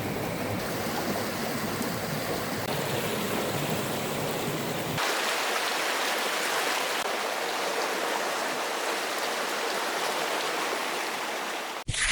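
Steady rushing noise like running water. About five seconds in the deep rumble drops out abruptly and the noise continues higher. Right at the end it breaks into short, loud electronic tones.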